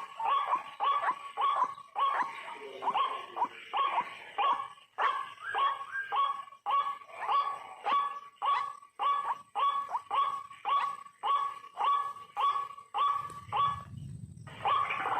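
White-breasted waterhen calls, a harsh note repeated about twice a second in a long, even series. The calling stops shortly before the end, and a brief low rumble follows.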